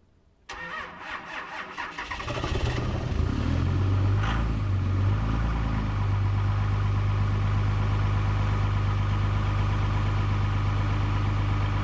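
Diesel truck engine cold-starting: the starter cranks for about a second and a half, the engine catches about 2 s in, runs unevenly for a few seconds, then settles into a steady idle.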